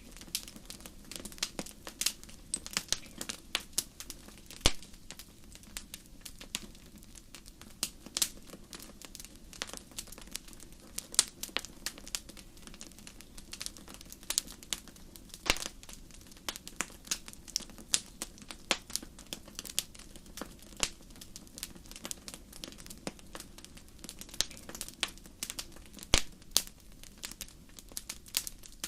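Wood fire crackling: irregular sharp pops and snaps, several a second, over a low steady rush of burning.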